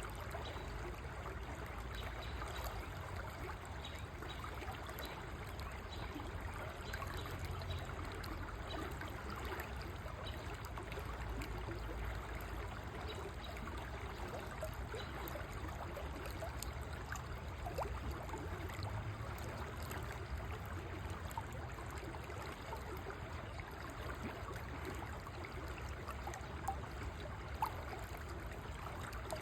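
River water flowing steadily over stones, a continuous rushing and trickling with a low rumble underneath. Two brief sharper splashes or clicks stand out near the end.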